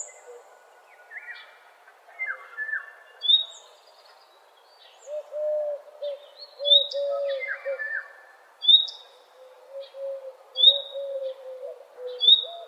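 Several birds calling: a short, sharp high call repeats about every two seconds, over lower falling whistled notes and a run of low repeated notes in the second half.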